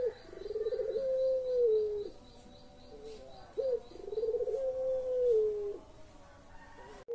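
Puter pelung dove cooing: twice, a short note followed by a long coo of about two seconds that opens with a quick quaver, then holds and sinks slightly at its end.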